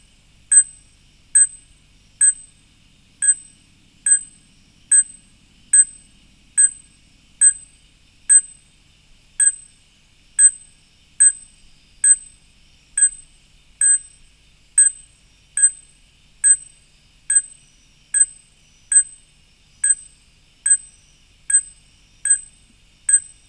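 A fruit bat calling: a short, high, ringing note repeated steadily, a little more than once a second, much like a bird's call.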